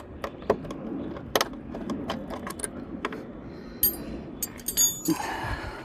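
Scattered metallic clicks and clinks of tools and bolts being handled, with a cluster of sharper clinks about four and five seconds in.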